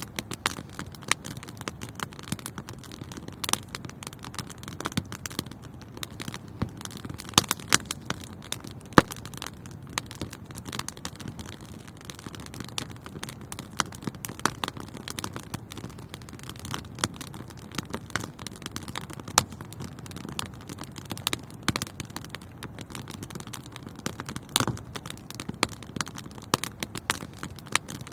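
Wood fire in a fireplace crackling, with frequent irregular sharp pops over a steady low hiss of burning.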